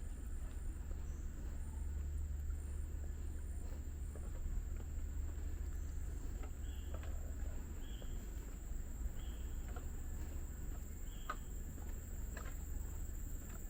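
Tropical forest ambience: insects droning steadily at a high pitch, with a bird giving four short calls about a second apart in the second half. A few footsteps on the trail come near the end.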